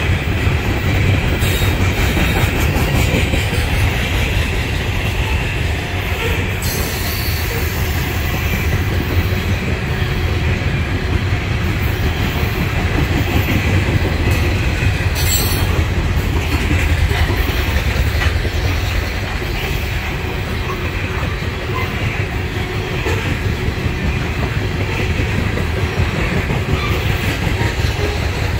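Loaded coal hopper cars of a freight train rolling steadily past: a continuous deep rumble of steel wheels on the rails with wheel clatter over the joints, and a few sharp clicks.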